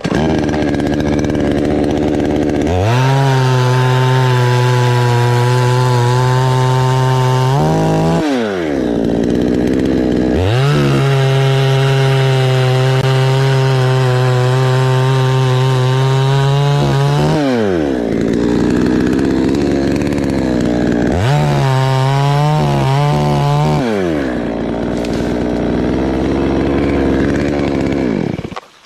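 Two-stroke chainsaw cutting into an anjili tree: three bursts at full throttle, the first two long and steady, the third shorter and wavering, each falling back to idle between. It cuts off suddenly near the end.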